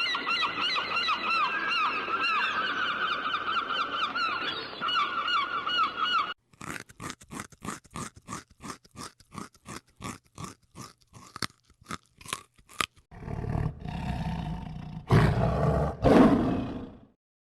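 A run of animal sounds: first a dense chorus of many overlapping bird calls, then a string of sharp clicks at about two a second, then several low, deep calls near the end.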